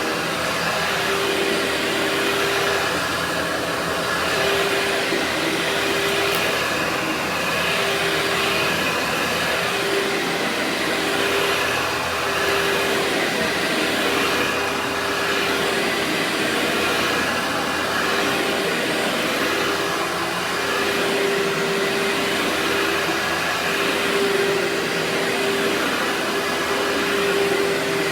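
Workhorse vacuum cleaner running steadily. A hum drops in and out and the air noise swells and fades every second or two.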